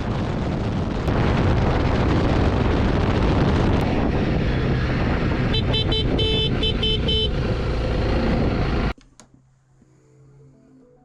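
Honda CRF300 Rally motorcycle being ridden at road speed: a steady rush of wind and engine noise. A quick series of short horn toots sounds about six seconds in. The riding noise cuts off abruptly near the end, leaving faint music.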